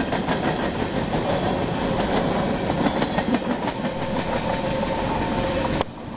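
Empty open-top coal cars of a freight train rolling past, their steel wheels clattering over the rail joints with a dense rumble, while a faint steady whine rings under the noise as the train draws away. The sound drops sharply near the end.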